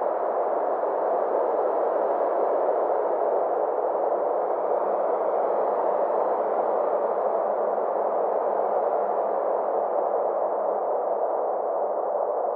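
Synthesized space ambience: a steady band of rushing noise with faint, slowly gliding tones above it.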